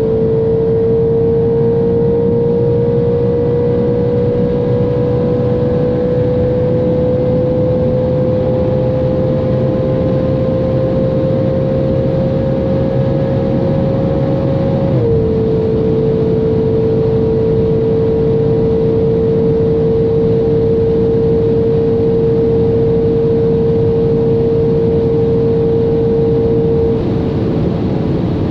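Straight-piped Audi RS5 4.2-litre V8 pulling at high speed in a tall gear, its note climbing slowly, then dropping suddenly at an upshift about halfway through and holding steady at high revs before easing near the end. Steady wind and tyre roar run underneath.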